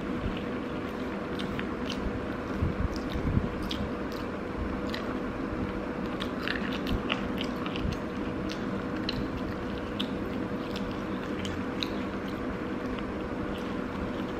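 Close-miked chewing and mouth sounds of someone eating rice and chicken by hand, with many small wet clicks, over a steady background hum.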